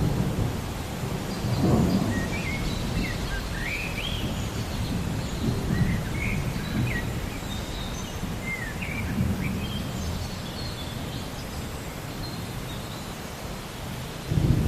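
Thunder rumbling in low, rolling swells, with birds chirping short rising and falling calls over it.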